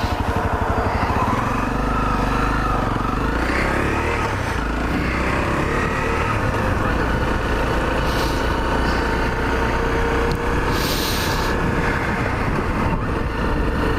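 Honda CRF250L's single-cylinder four-stroke engine under way on the road. Its pitch rises over the first few seconds as the bike gathers speed, then it runs steadily at cruising speed. A brief hiss comes about eleven seconds in.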